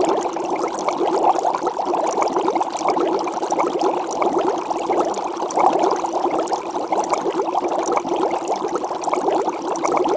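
Water bubbling and gurgling steadily, a dense stream of small bubbles like underwater ambience.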